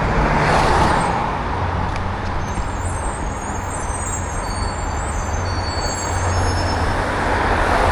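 Road traffic noise with a steady low engine hum from a large motor vehicle, with faint high-pitched squeals in the middle.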